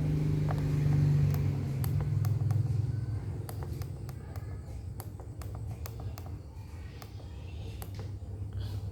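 A low steady hum, louder for the first few seconds, with scattered short clicks: keypad buttons on a Datakom DKG 309 generator controller being pressed while stepping through its menus.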